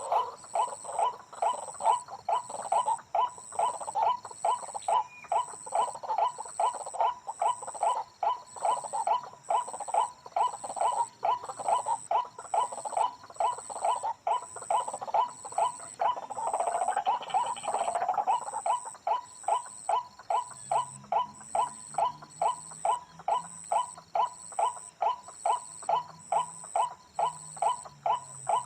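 White-breasted waterhen calling, the same short note repeated monotonously about two to three times a second without a break, with a brief louder stretch about two-thirds of the way through.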